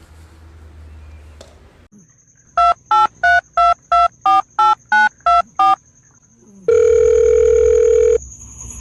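Telephone keypad tones: ten short two-pitch beeps, about three a second, like a ten-digit number being dialed, then a single steady tone of about a second and a half.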